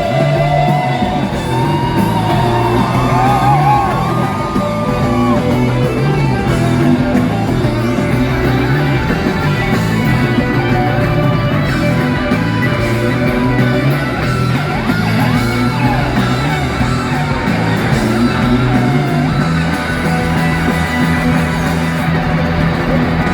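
Live rock band playing loud, with electric guitars, bass and drums, and a held melodic line high over the band in the first few seconds; shouts from the crowd. Recorded on a phone's microphone.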